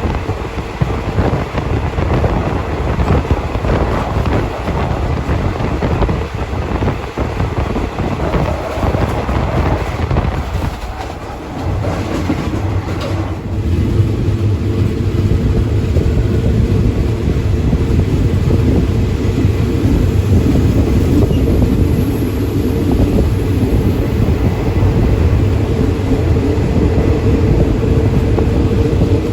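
Passenger train running at speed, heard from on board: a continuous rumble of the carriage on the rails. It grows louder and steadier about halfway through, with a steady hum.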